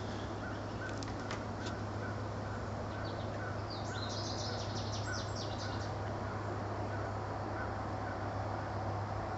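Small birds chirping in short, quick bursts, loudest about four to five seconds in, over a steady low hum.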